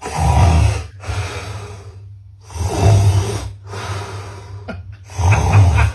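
A man snoring loudly: about five long snores in a row, each about a second, with short gaps between.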